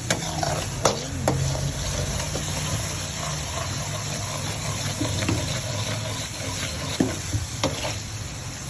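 Squid sizzling as it fries in a pan, stirred, with a few sharp clicks of a utensil against the pan about a second in and again near the end.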